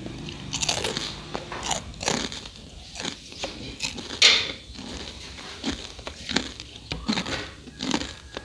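A person chewing a mouthful of crispy fried rice cakes: irregular crisp crunches, with one louder crunch about four seconds in.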